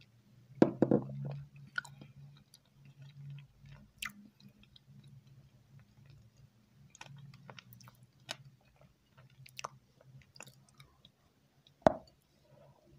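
Close-miked chewing of a dessert, with small scattered mouth clicks; a louder thump comes about a second in and a sharp click near the end.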